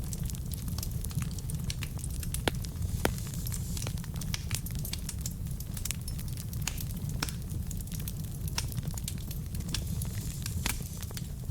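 Wood logs burning in a fireplace: a steady low rumble of flame with frequent small crackles and pops, two sharper pops about two and a half and three seconds in.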